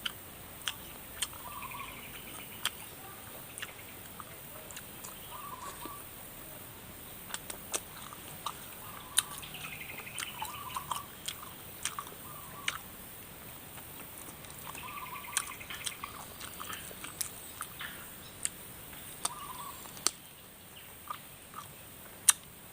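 Eating of spicy chicken feet: chewing and biting, with irregular sharp clicks every second or so. A bird calls in short bursts every few seconds in the background.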